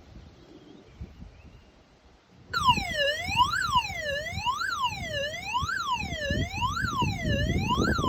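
Husqvarna Automower 220 AC robot mower's alarm sounding: a siren-like tone sweeping up and down about once a second, starting abruptly about two and a half seconds in, with handling noise underneath. It sounds once the mower is powered and working again after its broken micro switch was replaced.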